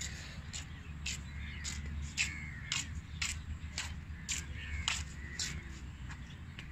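A bird calling over and over: short, sharp notes in an even rhythm about twice a second, fading near the end, over a low steady rumble.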